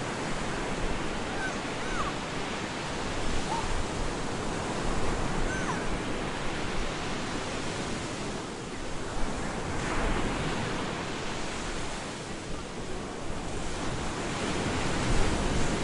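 Storm surf: waves breaking on a beach in a continuous rush of noise that swells and eases, with stronger surges about ten seconds in and near the end.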